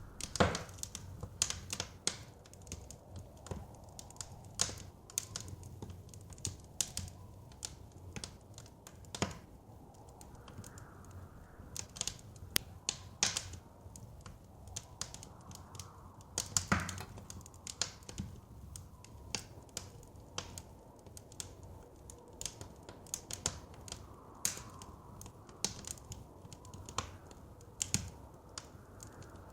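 Wood fire crackling, with irregular sharp pops and snaps, a few of them louder, over a low, steady rumble of flames and soft blizzard wind.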